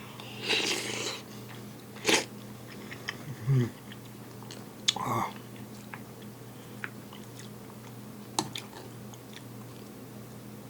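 A person eating a rice dish: chewing and mouth sounds, broken by a few short, sharp clicks. A steady low hum runs underneath.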